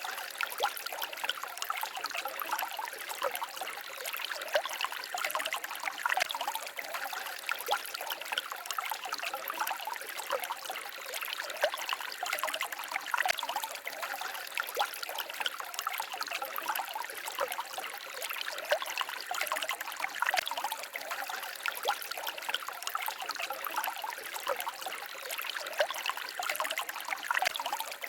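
Small forest stream babbling and trickling over stones, a steady splashing with many small quick gurgles and no lulls.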